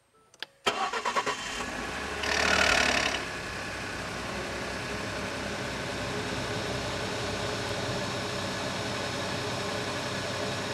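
Cold start of a 2011 Ford F-150's 3.5-litre EcoBoost twin-turbo V6: a click, brief starter cranking, then the engine catches. About two seconds in there is a loud noisy burst lasting about a second, the cold-start noise the owner can't identify. After it the engine settles into a steady idle.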